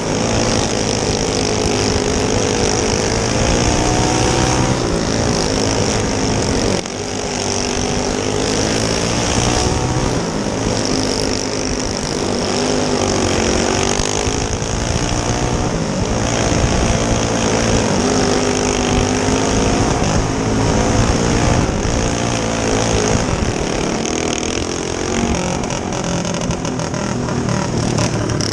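Single-cylinder four-stroke go-kart engine running at racing speed, its pitch rising and falling every few seconds as the throttle comes on and off, with a brief dip about seven seconds in.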